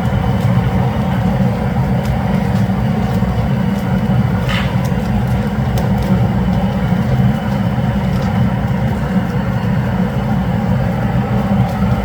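Wood fire burning under a cast-iron cauldron-lid griddle: a steady low rumble with faint scattered crackles.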